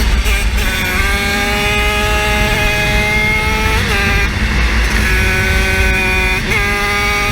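Small 50cc engine held at high revs, a high-pitched steady drone whose pitch sags slowly. It gives short throttle blips about four seconds in and again near the end, with a brief easing-off in between, over a low rumble of wind and road noise.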